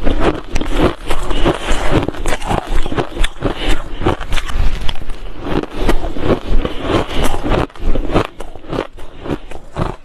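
Close-up crunching of ice being bitten and chewed, dense crackling crunches in quick succession, a little quieter in the last couple of seconds.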